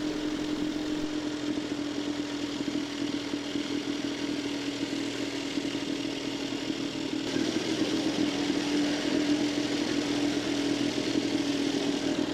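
Veteran Scott two-stroke twin motorcycle engine running steadily while riding along the road, a little louder from about seven seconds in.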